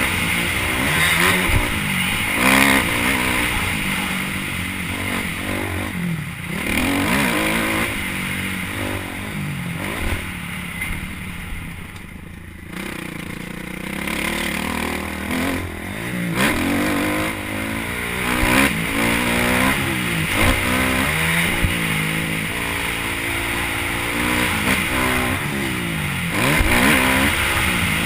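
Motocross motorcycle engine revving up and down again and again as the throttle is opened and closed. It drops off, quieter, about twelve seconds in, then picks up again.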